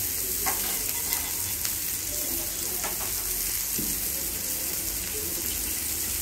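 Diced carrots and vegetables sizzling steadily in oil in a large black iron kadai, with a few light knocks as more vegetables are dropped and tossed in.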